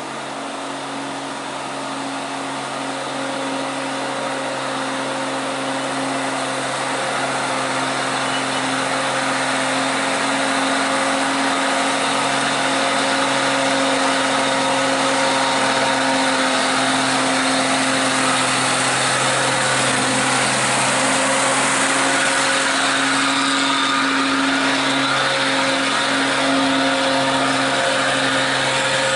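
A heavy truck's diesel engine running steadily, getting louder through the first half and then holding level.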